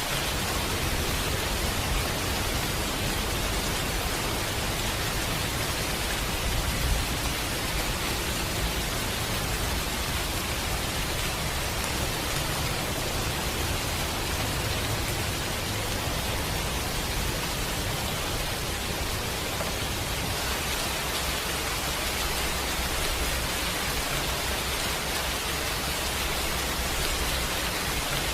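Steady rain falling, an even hiss throughout, mixed with a fireplace whose few faint pops stand out briefly, most clearly about seven seconds in.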